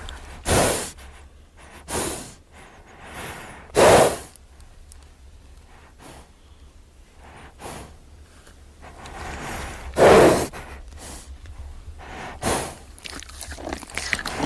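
An animal's short, breathy snorts or blows, about five of them a few seconds apart, the loudest about four and ten seconds in.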